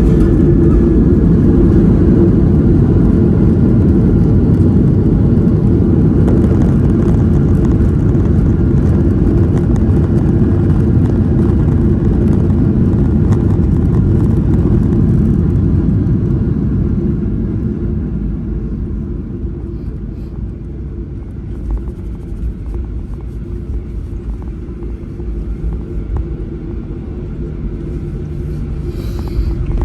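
Jet airliner's landing roll heard from inside the cabin: a loud, steady rumble of engines and wheels that eases off about two-thirds of the way through as the aircraft slows, with a brief click near the end.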